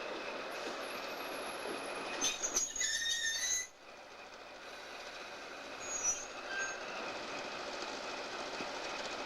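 Rail cars rolling along the track, with the steel wheels squealing against the rails for about a second and a half a little over two seconds in, the squeal stopping abruptly, and a shorter squeal about six seconds in, over steady rolling noise.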